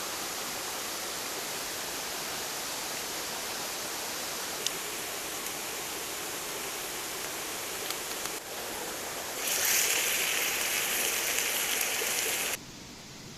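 Steady rushing noise of running water. About nine and a half seconds in it turns louder and brighter, then drops suddenly to a quieter hiss near the end.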